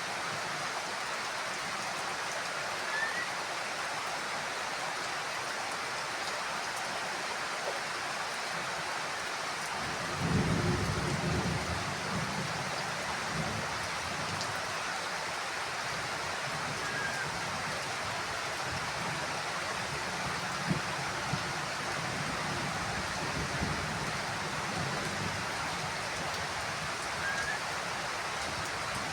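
Heavy rain falling steadily on a house roof. About a third of the way in, a roll of thunder starts and rumbles on for several seconds before fading back under the rain.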